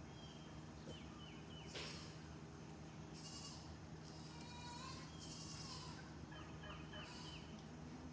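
Faint animal calls: scattered short, high chirps with falling tails and a few buzzy, rattling calls in the middle, over a steady low hum.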